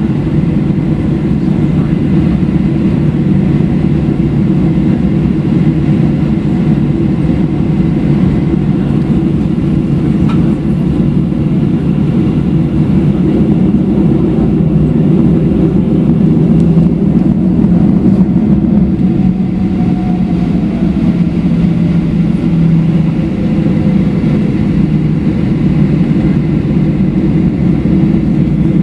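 Steady cabin rumble inside a Boeing 737-700 taxiing to the gate, its CFM56-7B engines running at taxi power. A faint tone slides down in pitch about two-thirds of the way through.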